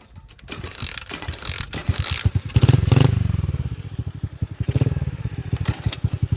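Dirt bike engine revved hard while the bike is stuck in a hole, with some clattering before it picks up about two and a half seconds in. It is loudest around three seconds, then keeps running at a steady pace.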